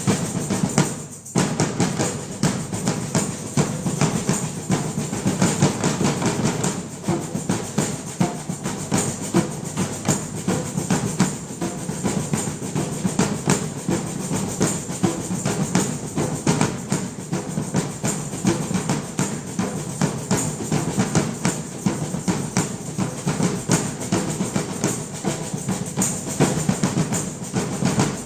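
Drum ensemble playing a fast, dense rhythm of drum strikes, with a brief break about a second in.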